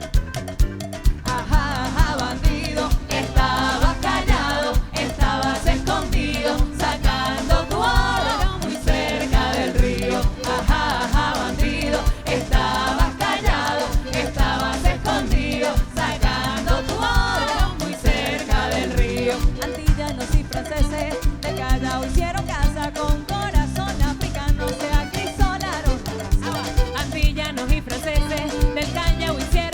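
A live Latin band playing with a steady beat of about two pulses a second, and a wavering sung melody over it from about a second in.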